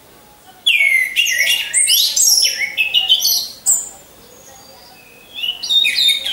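Orange-headed thrush singing: a fast, varied run of sliding whistled notes lasting about three seconds, a short pause, then another burst of song near the end.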